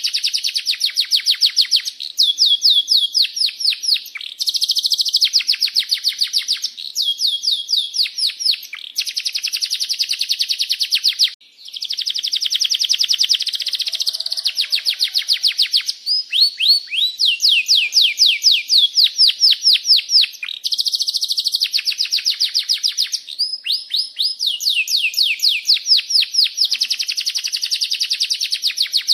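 Domestic canary singing continuously: long rolling trills of fast repeated chirps, phrase after phrase, some sliding down in pitch, with one brief break about eleven seconds in.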